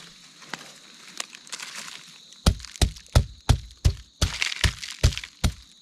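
Wild chestnut burrs being pounded open, a run of hard knocking blows about three a second, each with a dull thud. The blows start a couple of seconds in, after a few faint clicks and rustles.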